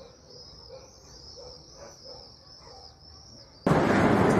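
Birds chirping outdoors: a steady run of repeated high chirps over faint background noise. Near the end it cuts suddenly to a loud rushing noise.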